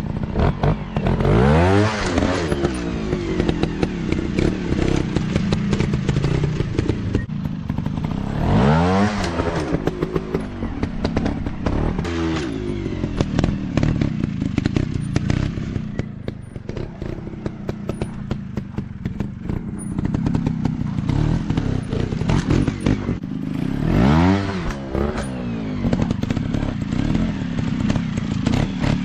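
Small off-road motorcycle engine revving up and falling back several times as it is ridden, with many short knocks and rattles in between.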